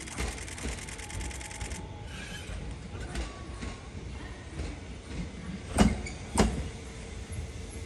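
JR 205 series 600 electric train rolling slowly past at low speed, with a fast rattle in the first two seconds. About six seconds in come two loud clacks just over half a second apart, as a bogie's two wheelsets cross a rail joint.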